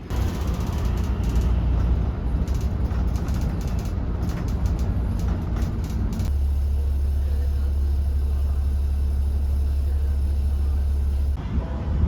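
Low rumble of a moving vehicle, with frequent sharp rattles and clicks over the first half. About six seconds in it changes abruptly to a steady low hum, which cuts off shortly before the end.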